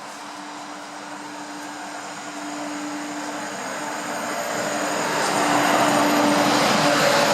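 A train approaching along the track, its running noise swelling steadily as it nears, over a steady low hum. Thin high-pitched wheel squeals begin near the end.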